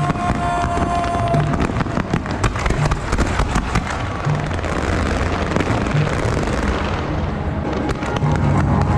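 Fireworks going off in a rapid, irregular string of sharp bangs and crackles, over a band's steady low drumbeat.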